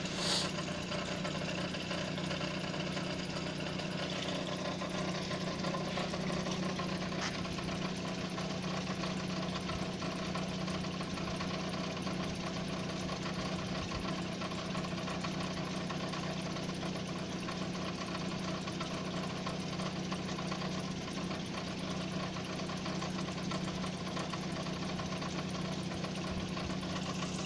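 Nissan Almera's GA16DE 1.6-litre four-cylinder engine running steadily with a knock from the lower timing chain, which the owner takes for a loose, worn chain rattling.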